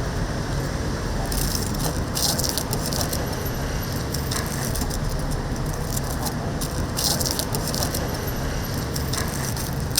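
Oil sizzling steadily in a deep fryer, with bursts of metallic rattling and clatter about two seconds in and again around seven seconds.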